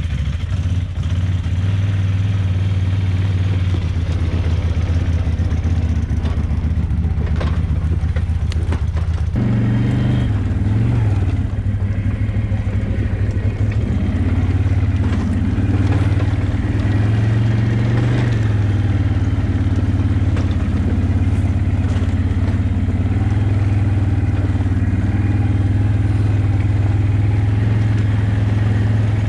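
ATV engine idling, then about nine seconds in the revs step up and the engine note rises and falls with the throttle as the quad is ridden off.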